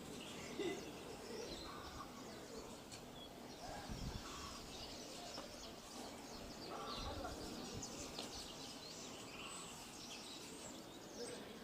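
Outdoor ambience of small birds chirping and calling on and off over a steady background hiss. A couple of brief low wind rumbles hit the microphone, about four and seven seconds in.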